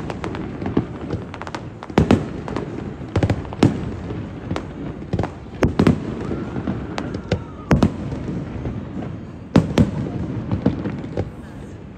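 Aerial fireworks display: a long string of sharp bangs from bursting shells at irregular intervals, some in quick pairs, over a steady background hiss and crackle.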